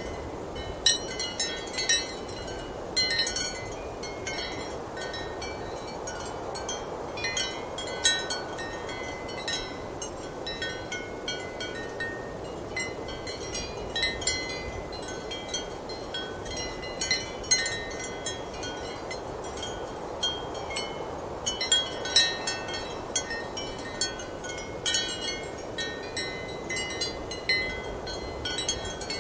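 Ceramic wind chimes clinking irregularly in clusters over a steady rush of strong wind.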